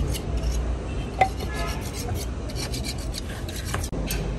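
Rough rubbing and scraping over a steady low hum, with a sharp click about a second in.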